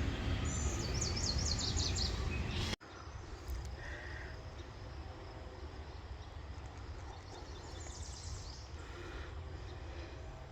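Outdoor ambience of low rumble with scattered bird chirps, a few quick falling chirps near the start and fainter calls later. The whole background drops abruptly quieter about three seconds in.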